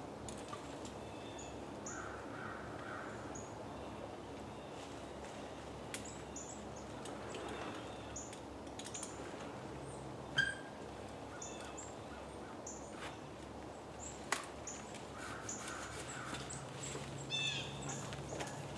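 Birds calling with short, high chirps over steady outdoor background noise, with a few sharp knocks, the loudest about ten seconds in.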